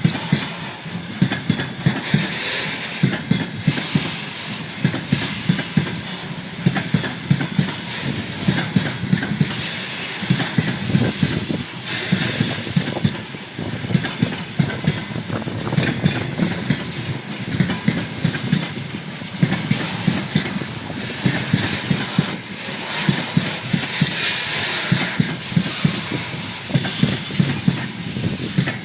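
Freight train wagons rolling past, their wheels clacking repeatedly over the rail joints above a steady rumble.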